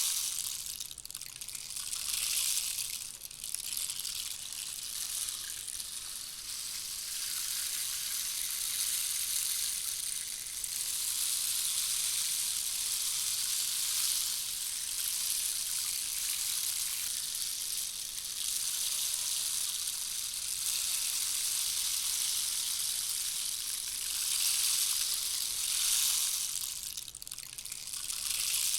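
Handmade rainstick sounding a steady, rain-like hiss of small pellets pouring through it. The hiss dips briefly a couple of times near the start and once near the end.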